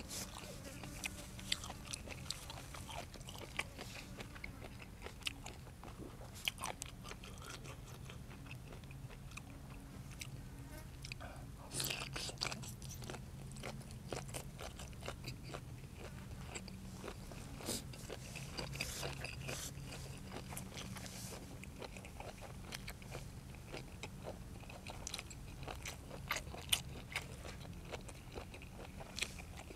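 Close-up eating sounds of a person biting, crunching and chewing blanched squid and fresh raw vegetables: many small crunches and wet clicks, with denser bouts of crunching about twelve seconds in and again around eighteen to twenty seconds.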